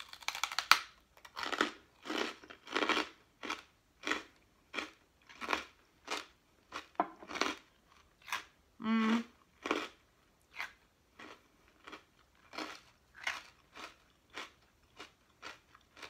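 Close-up crunching as a bite of a dehydrated, oven-crisped mini everything bagel topped with ice cream is bitten and chewed: a loud crunch right at the start, then steady chewing at about three chews every two seconds, growing quieter in the second half. There is a short hummed "mm" about nine seconds in.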